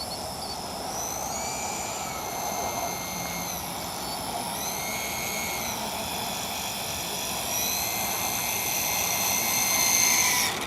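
Electric motor and propeller of a small RC model airplane whining. The pitch steps up and down several times with the throttle, and it cuts off suddenly near the end.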